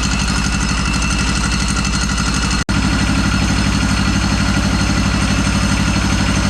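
Small diesel engine of a home-built diesel motorcycle idling steadily with an even, rapid knock of firing pulses. The sound breaks off for an instant about two and a half seconds in.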